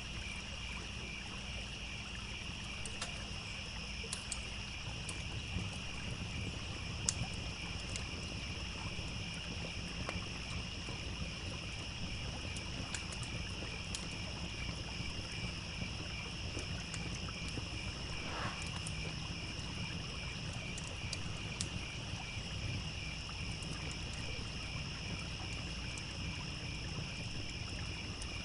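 Layered evening nature ambience: crickets chirping steadily in a pulsing high chorus, a campfire crackling with sparse sharp pops, and a low steady rush of a trickling stream underneath.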